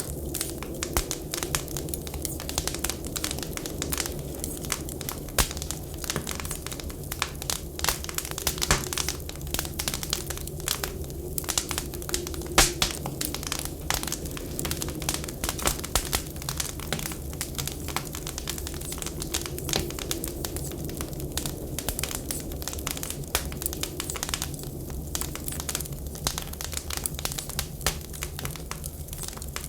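Wood fire crackling steadily, with frequent sharp pops and snaps over a constant low rumble.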